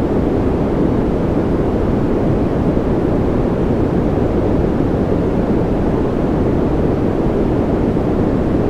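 A continuous synthetic noise track for sleep: a steady, even rush with no changes, weighted toward the low end, so it sounds deeper than pure hiss.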